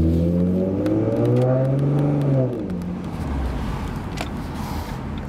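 2011 Ford Mustang's 3.7-litre V6 through a Roush axle-back exhaust, accelerating with the revs climbing for about a second and a half. The driver then eases off, and the note falls away to a quieter steady drone about halfway through.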